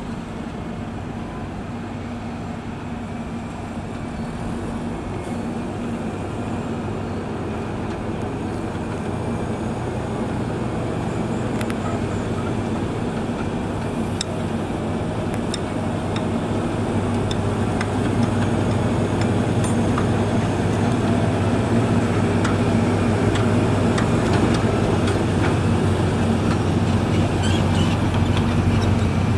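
Diesel engine of a heavy road-building machine running steadily, a deep hum that grows gradually louder, with a few faint clicks in the middle.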